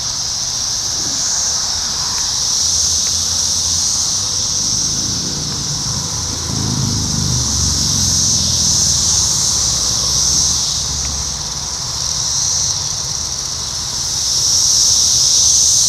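Chorus of Brood X 17-year periodical cicadas: a loud, steady high-pitched drone that swells and fades in slow pulses. A low vehicle rumble passes under it around the middle.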